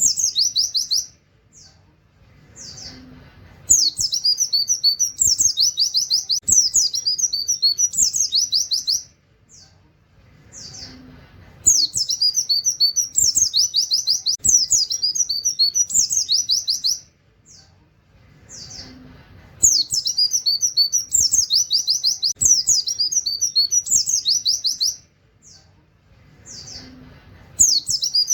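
White-eye (pleci) singing a rapid, high-pitched chattering song mixed with canary-like 'wit wit' phrases. It comes in bursts of about five seconds, each followed by a pause of about two seconds.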